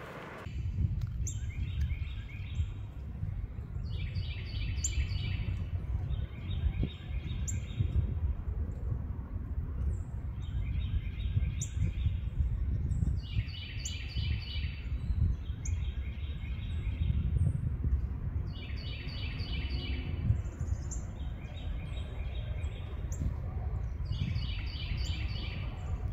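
A songbird singing the same short phrase of quick, evenly repeated notes over and over, a new phrase every two to three seconds. A steady low rumble runs underneath.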